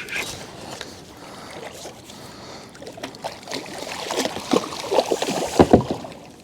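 Water splashing with knocks and rustling as a hooked channel catfish is brought in to the kayak, getting busier and louder in the last couple of seconds.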